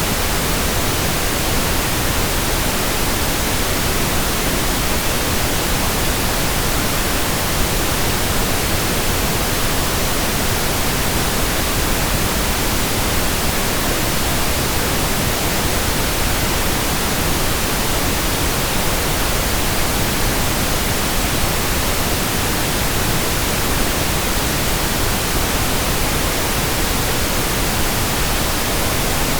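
Steady, unchanging pink noise: an even hiss with more weight in the lows than white noise.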